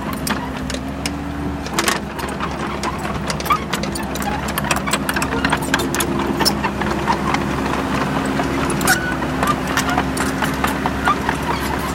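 Kobelco SK045 mini excavator's diesel engine running steadily, its pitch shifting slightly under hydraulic load, with frequent irregular sharp clicks and knocks over it.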